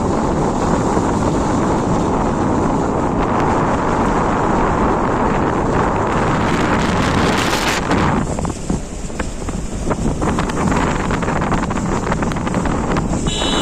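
Wind buffeting the microphone over the rumble of a moving vehicle on the road. The wind eases briefly about eight seconds in, leaving scattered ticks, and a short high-pitched tone sounds near the end.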